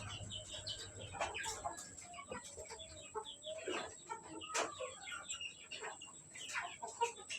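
A flock of village chickens clucking and calling in many short, overlapping notes while they are fed.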